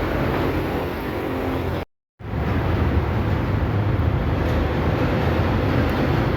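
Steady mechanical running noise with a low hum, cut off for a moment about two seconds in and then resuming.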